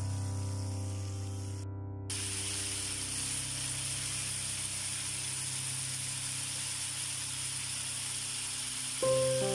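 Chicken pieces sizzling and bubbling in hot oil in a frying pan: a steady hiss that follows a short break about two seconds in. Before the break a held piano chord fades, and new music notes come in near the end.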